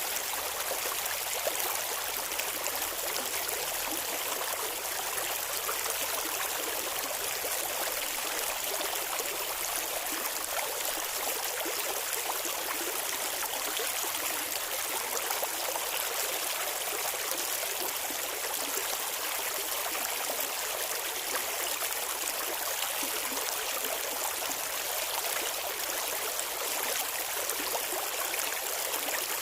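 Shallow river water flowing and burbling steadily over stones, an even rushing hiss with fine splashy detail.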